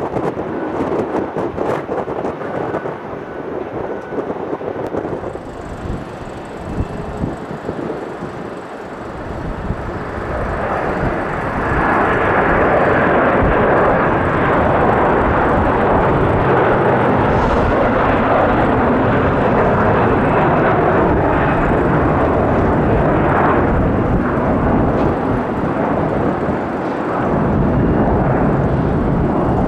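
Jet airliner engines passing close by: a broad rushing rumble that swells about ten seconds in, stays loud for over ten seconds, dips briefly and comes back near the end.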